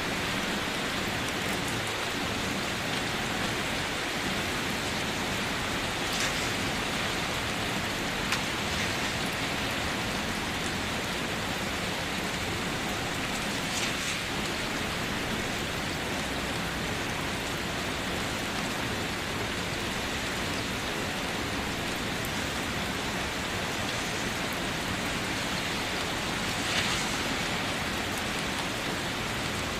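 Heavy rain falling over a waterfall: a steady, even hiss of rain and rushing water. A few louder splashes stand out about six, eight, fourteen and twenty-seven seconds in.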